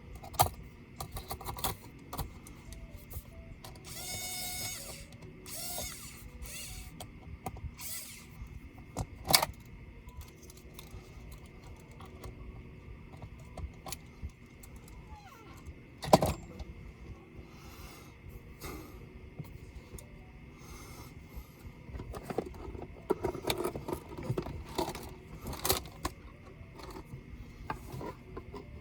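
Clicks, taps and small knocks of tools and small parts being handled while a laptop is taken apart. A brief buzzing scrape comes about four seconds in, and two sharper knocks fall near the middle.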